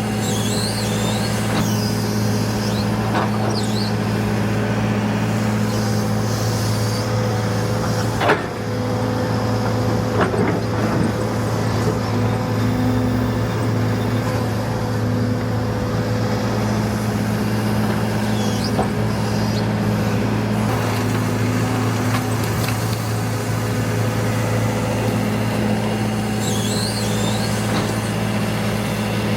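Heavy diesel construction machinery running steadily with a constant low engine hum, broken by a sharp knock about 8 seconds in and a lighter one about 10 seconds in.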